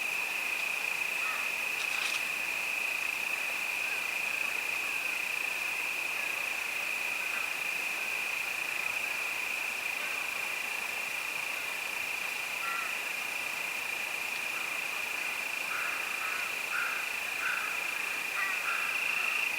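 Crickets singing in a steady, unbroken high-pitched chorus, with a few faint short calls lower down toward the end.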